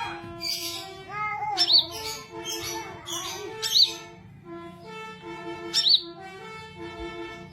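Sunbird chirping, with sharp high notes about every two seconds, over steady background music.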